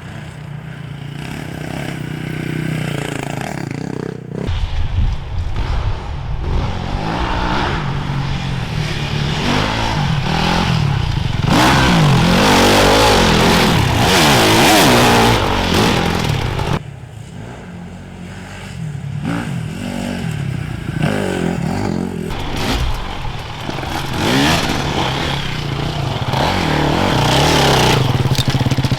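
Off-road enduro motorcycles riding past, engines revving up and down as the riders accelerate and back off, loudest from about twelve to sixteen seconds in. The sound level changes abruptly twice, near four and seventeen seconds in.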